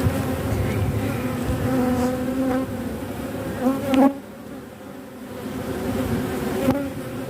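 Honeybees buzzing around an opened hive as its frames are inspected, a steady hum with individual bees passing close by. One pass rises in pitch and is loudest about four seconds in, then the buzzing eases for a moment.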